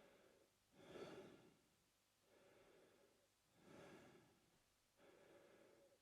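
A man breathing slowly and steadily through his mouth, faint, about one full breath every three seconds; each cycle has a quieter airy phase and a louder, breathier one.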